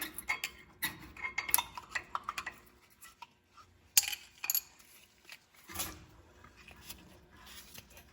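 Small metal parts clinking as an old brake pad and tools are handled against a brake caliper: a quick run of sharp clinks and clicks in the first two seconds or so, and another cluster about four seconds in.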